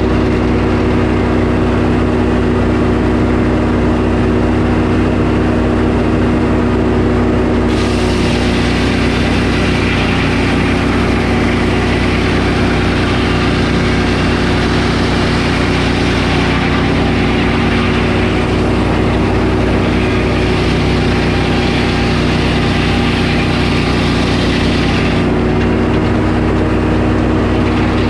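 Sawmill engine running steadily at a constant speed. From about 8 seconds in until about 25 seconds a harsher hiss joins it, as the blade cuts a board off the pine log, then drops away again.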